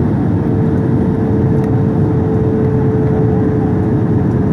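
Airliner cabin noise during descent: a steady rumble of engines and airflow, with a steady hum that drifts slightly lower in pitch.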